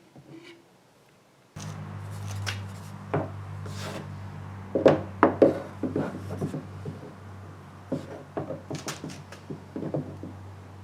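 Hand-work noises from fitting parts: a run of irregular clicks, knocks and rubs, loudest about five seconds in. Under them is a steady low hum that starts suddenly about a second and a half in.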